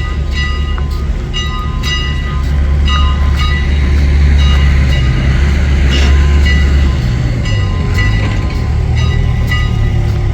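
Steam locomotive's bell ringing steadily, about two strokes a second, over a heavy low rumble from the engine as it moves. The ringing fades out near the end.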